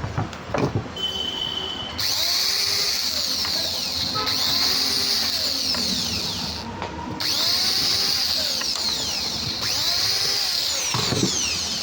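Electric rubbing (polishing) machine motor running at high speed with a steady high whine, dropping out briefly about 7 s in and again near 10 s before picking up.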